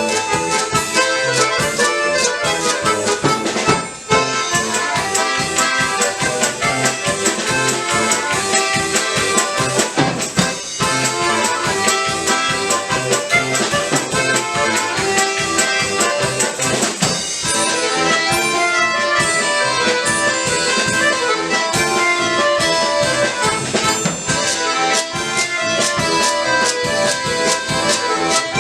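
Bayan (Russian button accordion) orchestra playing a lively tune with many voices together and fast, even note attacks. It breaks off briefly about four seconds in and again about ten seconds in.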